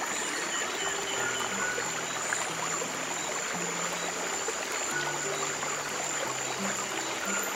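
Steady flowing stream water with soft, slow piano notes held underneath.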